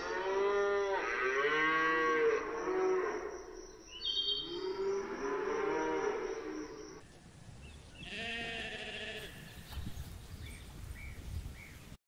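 Cattle mooing: several long, drawn-out moos in the first nine seconds, the last one fainter.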